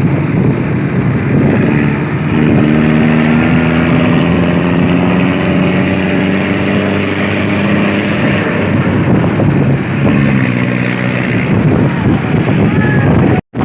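Truck engine running loudly, with a steady droning tone from about two seconds in until about nine seconds, and again briefly near eleven seconds. The sound cuts out for a moment just before the end.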